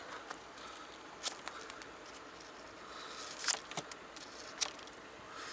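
Faint outdoor background with a few scattered sharp clicks or crunches, one near the start and three in the second half.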